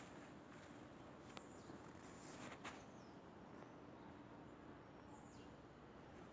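Near silence: faint outdoor ambience, with two soft clicks in the first half and a couple of faint, short, high chirps that fall in pitch.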